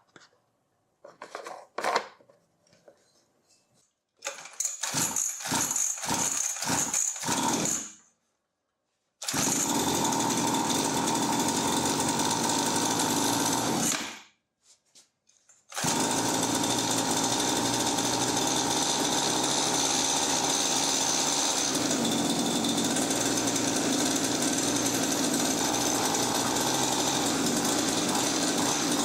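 Mini cross pocket bike's small two-stroke engine being started: a run of short cranking bursts, then it catches about nine seconds in and runs for about five seconds, cuts out, and starts again to run steadily.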